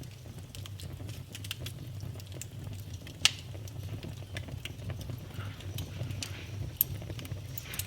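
Wood fire burning in a fireplace, crackling with scattered sharp pops over a low steady rumble; the loudest pop comes about three seconds in and another near the end.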